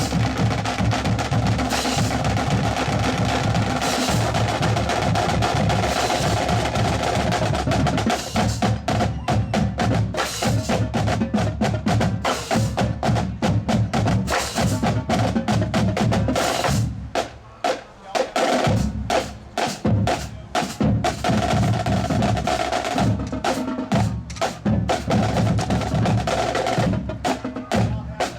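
A band playing, with drums and percussion to the fore; the playing drops away briefly about two-thirds of the way through.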